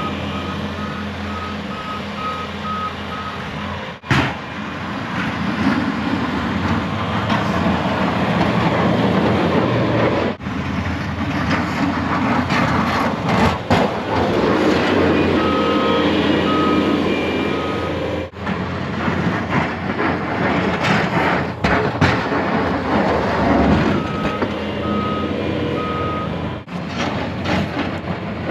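Backup alarm on a snowplow vehicle beeping at about two beeps a second in short runs near the start, around the middle and near the end, over the steady noise of the vehicle's engine as it reverses while plowing.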